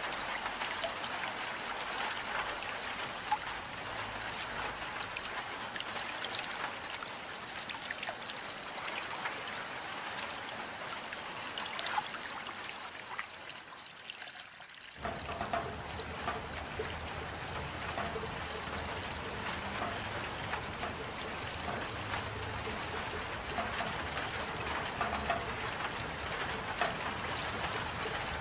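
Steady rain with many small drops ticking and water trickling. A little before halfway it thins out, then comes back suddenly with a fuller, deeper sound.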